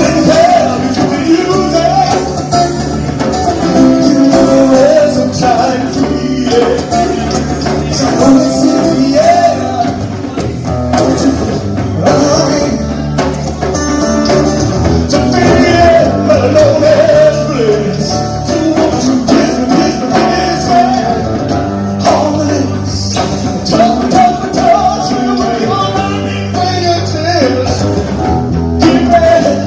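A live jam band playing a rock song, full band with a steady groove.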